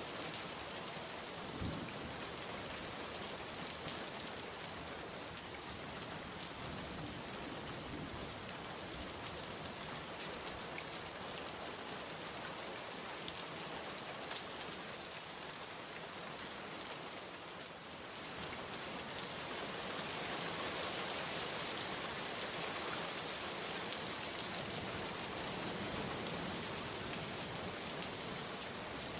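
Steady rain falling, a dense even hiss with scattered drop ticks. It dips briefly a little past halfway, then comes back slightly heavier.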